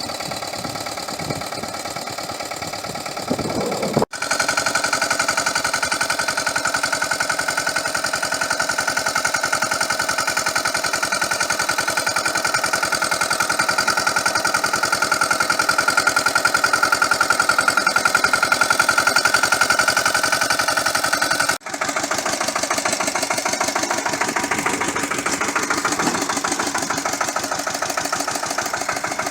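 Pasquali two-wheel tractor's Lombardini LDA96 single-cylinder air-cooled diesel running steadily with a fast knocking beat and a high whine over it. The sound breaks off abruptly twice, once about four seconds in and again about three-quarters of the way through.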